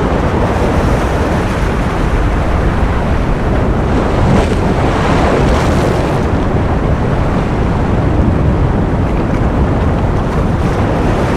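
Ocean surf: a steady, loud wash of waves, swelling briefly fuller and hissier about four to six seconds in.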